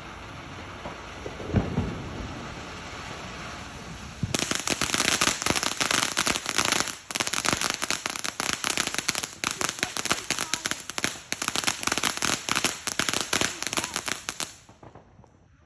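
Fireworks: a low thump about a second and a half in, then from about four seconds a dense run of rapid crackling pops for about ten seconds, fading out near the end.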